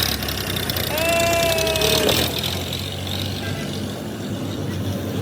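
Road traffic with a vehicle engine running steadily, and a horn sounding once for about a second, about a second in.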